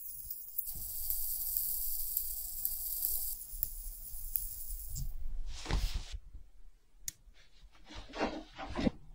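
A steady high hiss with a faint steady tone for about two and a half seconds, then a short rushing swell and, near the end, irregular rubbing and scraping of small workbench handling.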